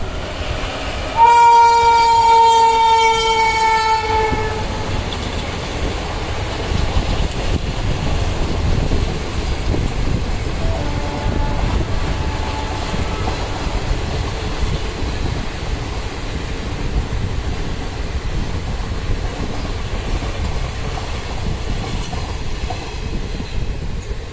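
Passenger train's locomotive horn sounding one long blast about a second in, lasting about three seconds and sliding slightly down in pitch. The train's steady low running noise continues throughout, with a fainter horn note about eleven seconds in.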